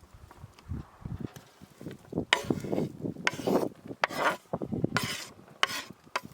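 A cooking utensil scraping and clinking against a pan over a campfire, stirring food: a run of short scrapes, about half a dozen, starting about two seconds in.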